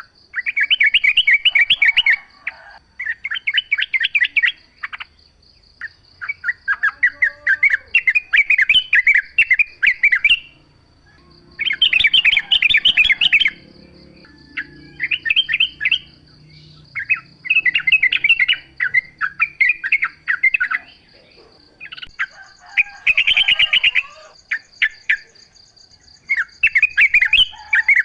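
Yellow-vented bulbul (trucukan) singing: repeated bursts of fast, bubbly chattering notes, each lasting a second or two with short pauses between. A steady thin high tone runs behind, and a second one joins about two-thirds of the way through.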